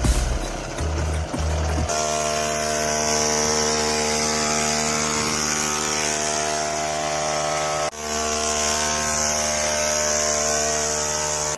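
Homemade mini tractor's engine running at a steady speed with an even, unchanging drone, with a short break near 8 s.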